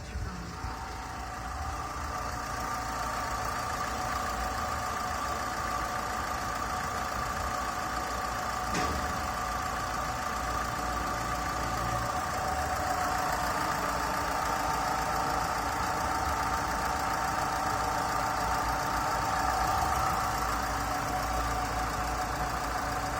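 Engine running steadily at idle on a test, with a single brief click about nine seconds in.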